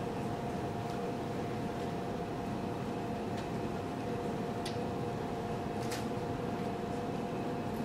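Steady background hum and hiss, with a constant two-note electrical or ventilation drone and a few faint clicks.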